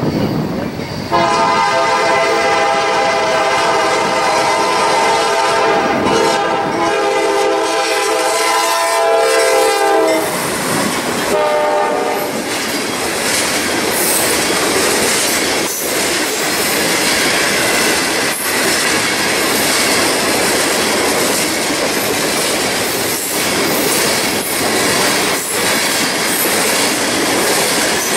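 Norfolk Southern freight locomotive's air horn sounding for the grade crossing: one long blast of about nine seconds, then a short one. The train's covered hopper cars then roll past with wheels clacking over the rail joints under a steady rumble.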